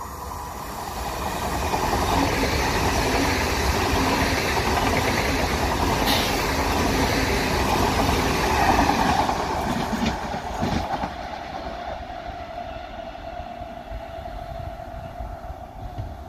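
PKP Intercity Pendolino (ED250) electric train passing at speed: a rush of wheels and air that builds over the first two seconds, stays loud for about eight seconds with a sharp click about six seconds in, then falls away as the train recedes.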